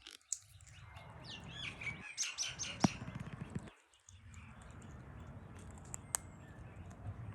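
Bird chirping: a quick run of high chirps about two seconds in, with sharp clicks about three and six seconds in.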